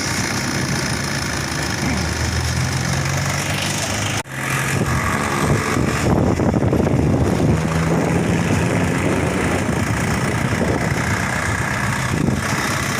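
Diesel truck engine running steadily, with the sound briefly dropping out about four seconds in.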